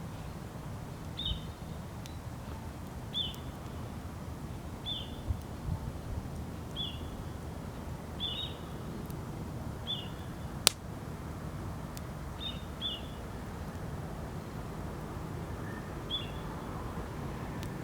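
A bird calling with a short, high chirp repeated about every two seconds over steady outdoor background noise, with one sharp crack about ten seconds in.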